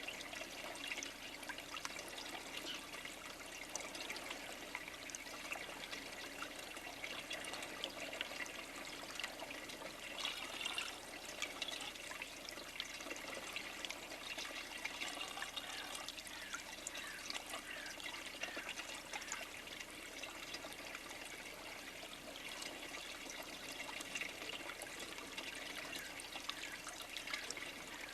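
Steady trickling, water-like noise with many small clicks scattered through it, and a few short, high, falling chirps about halfway through.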